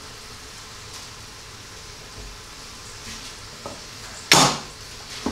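Goose breasts and vegetables frying gently in oil in an electric pressure cooker's pot, a faint steady sizzle, with one short loud knock about four seconds in.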